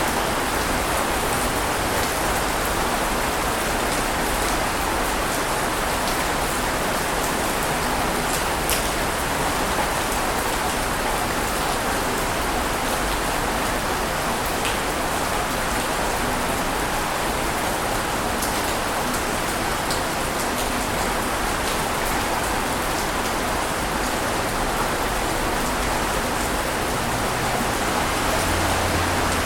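Steady rushing water noise with faint scattered pattering ticks. It holds an even level throughout, with no swell and break of individual waves.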